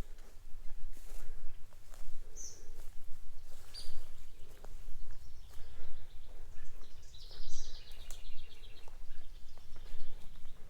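Birds chirping outdoors, with a rapid trill about two-thirds of the way through, over a low steady rumble.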